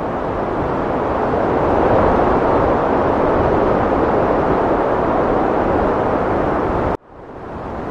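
Heavy wind blowing as a loud, deep, steady rush that swells slightly about two seconds in. Near the end it cuts out abruptly and fades back in, as at the seam of a looped recording.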